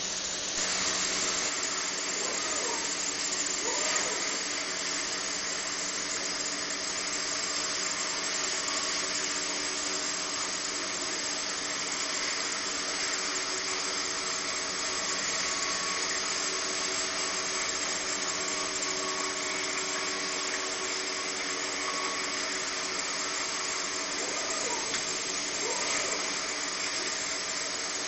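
CNC stone-working machine running steadily as it cuts a sink from a solid stone block: a constant hum with an even hiss over it.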